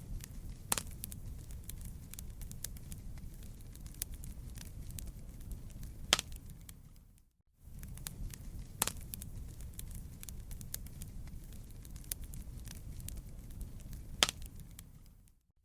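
Burning wood in a campfire: a low steady rumble of flames with constant crackling and several sharper, louder pops. The sound cuts out for a moment about halfway through.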